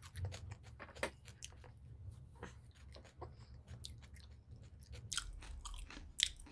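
A person chewing mouthfuls of spiced chicken liver and gizzard close to the microphone: irregular small wet clicks and crunches, with one sharper click near the end.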